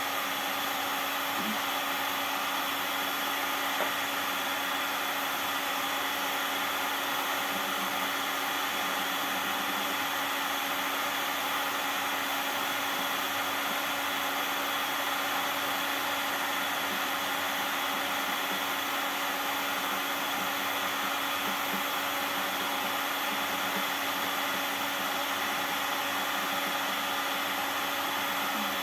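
Electric hot-air blower running steadily with an even whine, heating plastic lids to soften them for repair.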